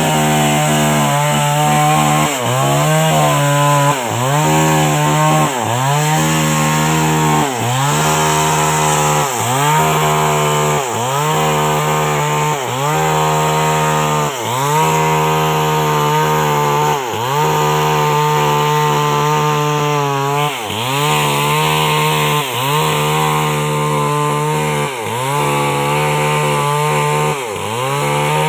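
Old two-stroke chainsaw at full throttle, ripping a coconut palm trunk lengthwise. The engine note sags and recovers about every one and a half seconds as the bar bites into the wood under load.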